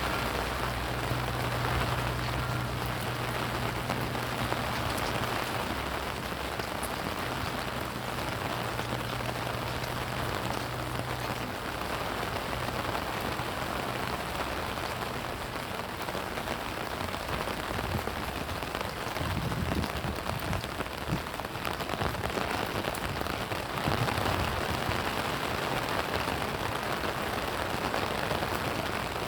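Steady rain falling and pattering on surfaces. A low steady hum sits under it for the first dozen seconds, then fades away.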